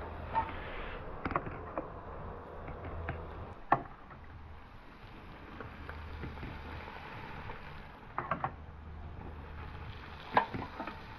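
Scattered sharp clicks and knocks of handling, loudest about four and ten seconds in, over a steady low rumble.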